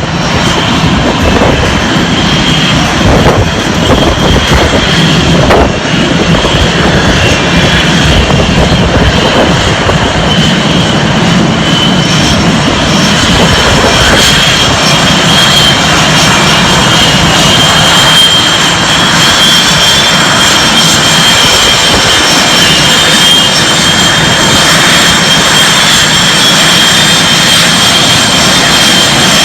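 Blue Angels F/A-18 Hornet jet engines running loud and steady, a dense roar with a high whine on top, cutting in abruptly at the start.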